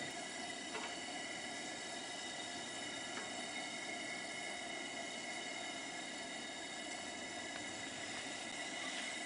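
Coleman two-burner camp stove burning with a steady, even hiss under a pot of soup stock at the boil.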